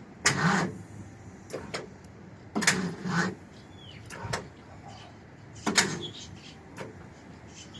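A series of about six short, separate mechanical clunks and knocks, spread a second or so apart.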